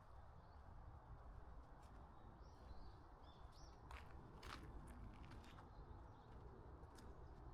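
Quiet woodland ambience with faint bird chirps and a few soft footstep clicks about four seconds in, over a low steady rumble.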